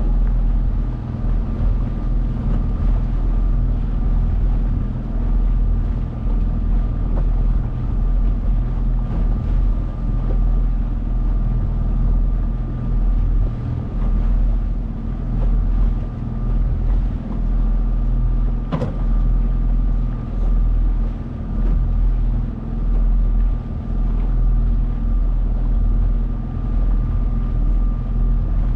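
A 9.8 hp outboard motor running steadily under way, with a steady whine above its drone and wind on the microphone. A single sharp knock sounds about two-thirds of the way through.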